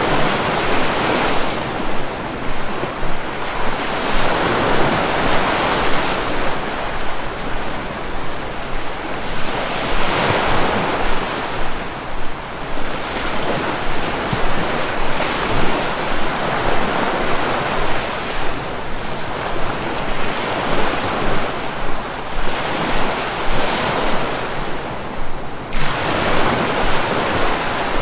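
Sea waves breaking and washing ashore, a steady rush that surges every three to five seconds.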